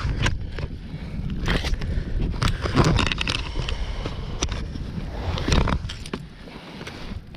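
Handling noise in a kayak: irregular knocks, taps and scrapes as gear and the catch are handled, over a low rumble.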